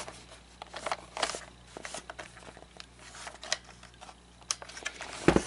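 Handling noise: scattered light clicks and rustles of plastic animatronic parts and small tools being handled, with a louder knock near the end.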